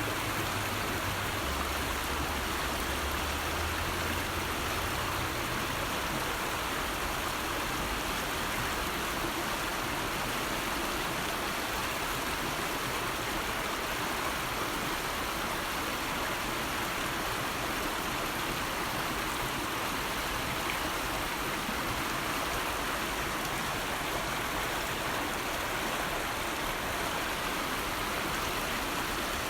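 River water flowing steadily, a continuous rushing hiss. A low hum underneath stops about five seconds in.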